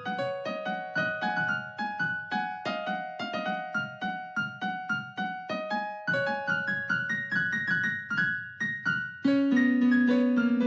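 Piano playing softly under a sermon: a steady run of single notes, several a second, with a fuller, louder chord struck about nine seconds in and left to ring.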